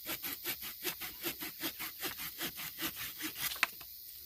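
Hand saw cutting through a hop hornbeam limb with quick, even strokes, about five a second. The strokes stop with one sharp click near the end as the cut finishes.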